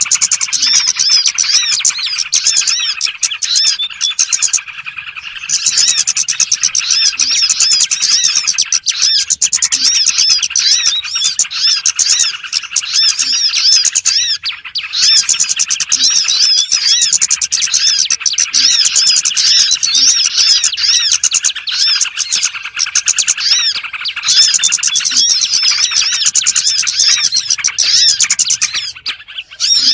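Bird-lure recording of many small birds chirping and twittering in a dense, rapid chorus of high arched notes, with brief lulls about five seconds in and near the end.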